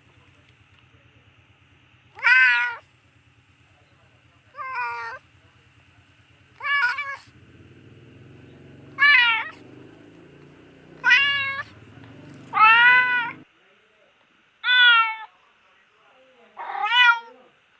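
Domestic cat meowing over and over, eight drawn-out meows about two seconds apart, each rising then falling in pitch. A faint low hum underneath stops about three-quarters of the way through.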